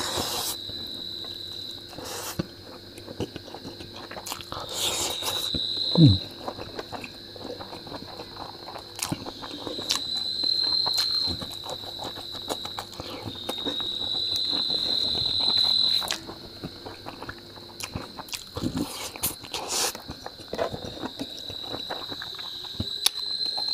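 Close-up eating sounds: chewing, biting and crunching with sharp clicks and knocks, the loudest about six seconds in. Under them runs a steady high insect trill that swells louder several times.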